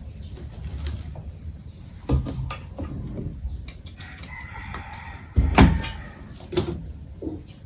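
A few knocks and thumps, the loudest about five and a half seconds in, with a chicken calling in the background about four seconds in.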